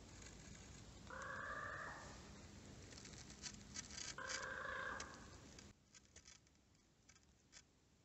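A bird in winter forest giving two drawn-out calls, about three seconds apart, with short faint clicks around and after them.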